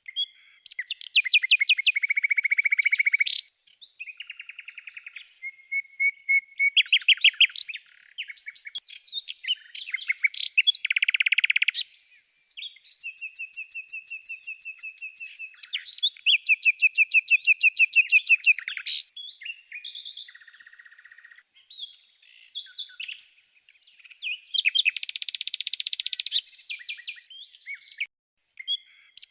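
Songbird singing: a long run of varied rapid trills and chirping phrases, one after another with short gaps between them.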